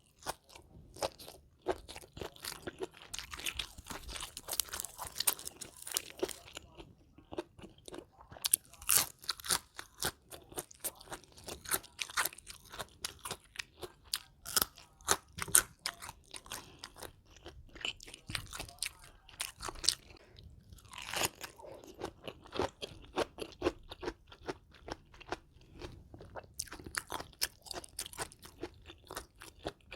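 Close-miked chewing of crunchy food, with irregular crisp crunches several times a second.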